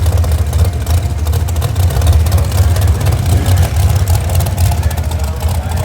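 Loud, steady low rumble of a muscle car engine running, with no clear rise or fall in pitch.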